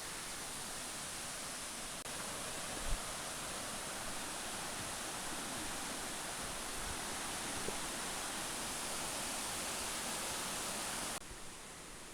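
Waterfall with a 25 to 30 foot drop, rushing steadily; the sound falls off suddenly about eleven seconds in.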